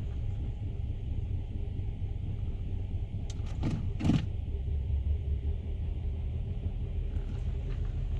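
2015 Nissan Altima's 2.5-litre four-cylinder engine idling rough in drive with an uneven low rumble, the sign of the multiple-cylinder misfire stored alongside a P0014 exhaust valve timing fault. A brief falling sound stands out about four seconds in.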